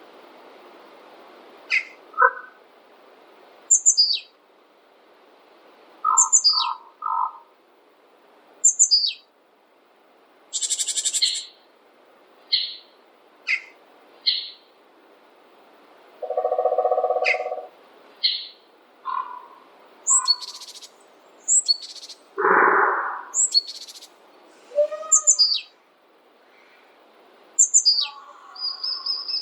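Several forest birds calling over a faint steady hiss. A short, high, falling whistle repeats every two to three seconds, mixed with buzzy calls, a held lower note a little past halfway and a lower, louder call about three-quarters through.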